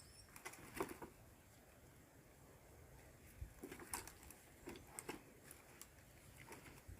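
Faint, scattered clicks and knocks of pieces of firewood being handled and stacked, a few at a time, with near silence between.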